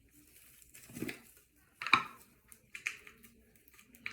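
Close handling noises: irregular rustling with a sharp click about two seconds in.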